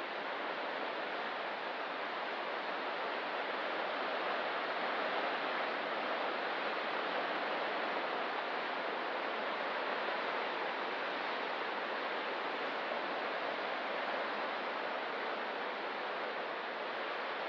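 Ocean surf: a steady wash of breaking waves with no distinct crashes, swelling slightly a few seconds in.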